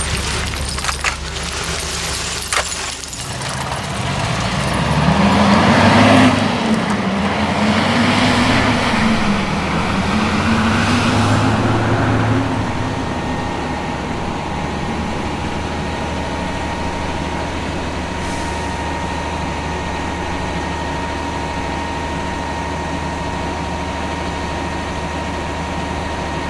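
A vehicle engine revs up and down about three times, then settles into a steady run with a constant hum. There are a few clicks at the start.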